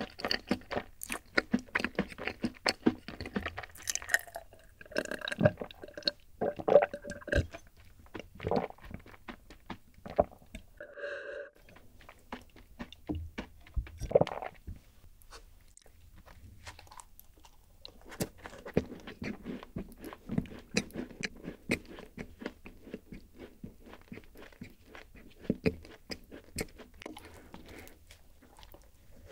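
Close-miked chewing and crunching of rice-oat cookies, with wet mouth clicks, a brief hum-like tone about 11 seconds in and a fresh crunchy bite near the end.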